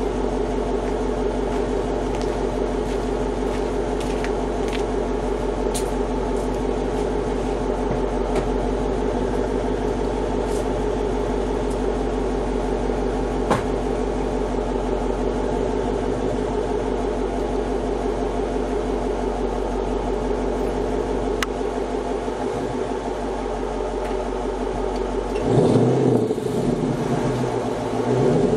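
2009 Dodge Challenger R/T's 5.7-litre Hemi V8 idling steadily through a Corsa Xtreme cat-back exhaust with JBA shorty headers. Near the end it is given some throttle and the pitch rises and falls.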